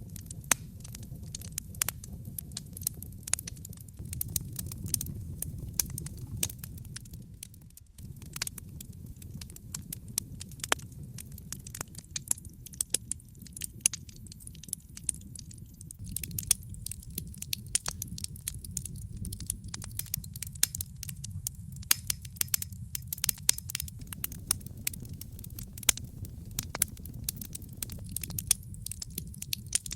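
Wood fire burning in a fireplace: frequent irregular sharp crackles and pops over a steady low rumble of the flames. The rumble drops out for a moment about eight seconds in.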